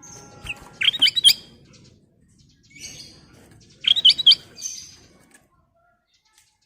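A kutilang emas bulbul singing two short phrases of quick, rising and falling whistled notes, about three seconds apart, with softer high chattering between them.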